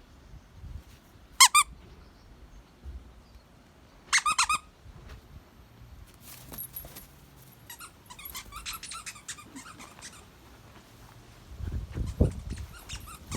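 Squeaky plush bird toy squeaked in a dog's mouth as it chews: one sharp squeak, then a quick run of three a few seconds later, then fainter, scattered squeaks. Low thumps near the end.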